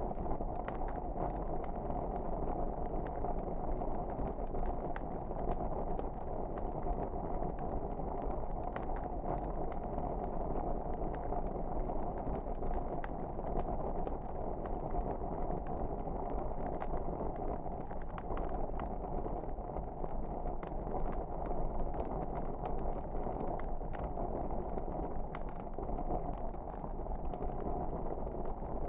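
Wood fire burning steadily: a low, even rush of flames with frequent small, sharp crackles and pops at irregular intervals.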